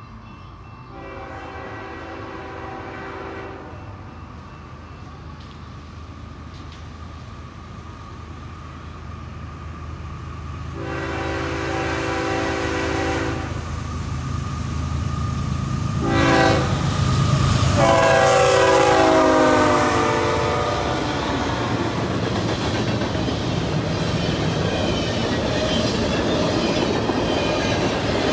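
Diesel freight locomotive sounding its horn in the long, long, short, long pattern used at grade crossings as it approaches, its engine drone growing louder. The last long blast drops in pitch as the locomotive passes, and then the freight cars rumble and clatter by on the rails.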